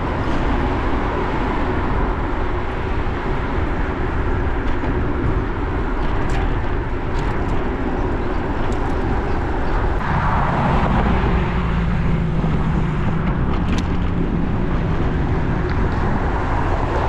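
Steady road traffic noise. About ten seconds in a motor vehicle passes close, its engine hum heard for a few seconds.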